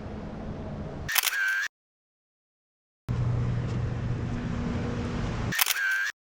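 Camera shutter click sound effect, heard twice, each time closing a short stretch of outdoor background noise and followed by dead silence.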